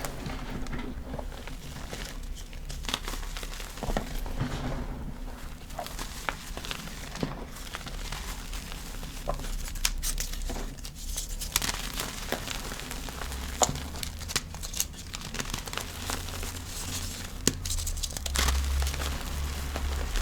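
Blocks of gym chalk crushed and crumbled by hand, giving irregular crisp crackles and crunches. A low rumble builds up near the end.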